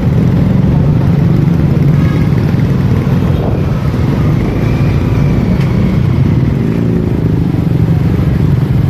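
Motorcycle engine running steadily under way, with road and wind noise from the rider's seat.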